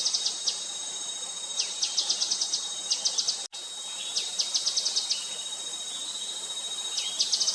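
Gray-headed canary-flycatcher calling: short quick-fire trains of sharp, high notes, each about half a second long, repeated four or five times, over a steady high insect drone.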